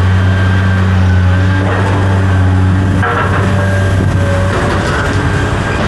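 A large engine running steadily with a deep, even drone; about three seconds in the drone weakens and a rougher rattling noise takes over.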